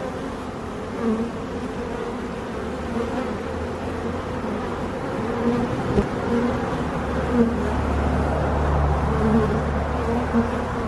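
A honeybee swarm buzzing loudly around a hive box as the bees settle in, with many bees passing close by in a shifting, wavering drone. A low, steady hum joins underneath about two and a half seconds in and grows stronger from about seven seconds.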